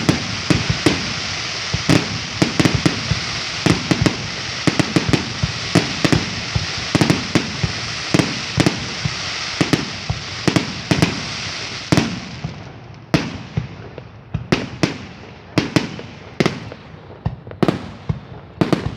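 Aerial fireworks bursting: a rapid run of booms and bangs over a dense crackling hiss. About two-thirds of the way through, the crackle dies away and only separate bangs remain.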